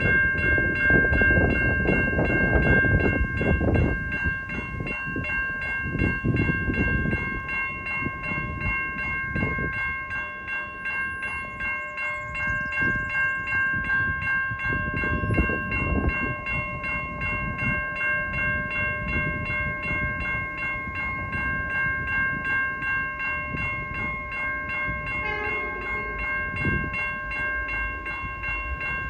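Safetran Type 3 electronic level-crossing bells ringing continuously with a rapid, even stroke, signalling that the crossing is activated for an approaching train. Under the bells runs a low, uneven rumbling noise, loudest in the first few seconds.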